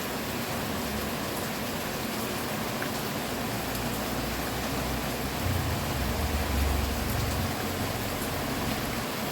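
Steady rain falling, an even hiss, with a low rumble that builds up in the middle and dies away a couple of seconds later.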